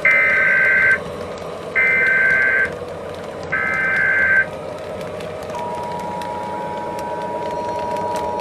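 Emergency Alert System signal: three short screeching bursts of the digital SAME header data, each about a second long, then the steady two-tone EAS attention signal starting about halfway through. A steady hum runs underneath.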